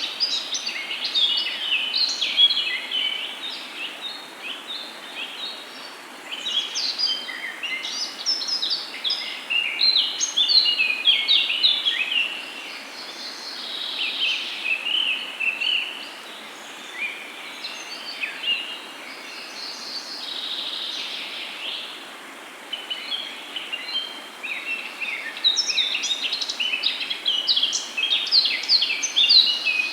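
Several birds chirping and singing together in a dense chorus of short, high calls, easing off for a few seconds now and then, over a faint steady background hiss.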